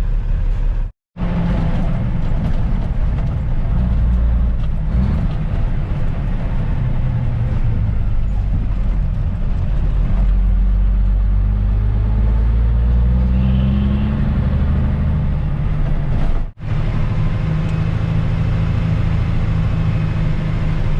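Ford L9000 dump truck's diesel engine running on the road, its pitch climbing and falling through the gears in the middle. Twice it cuts out briefly to silence.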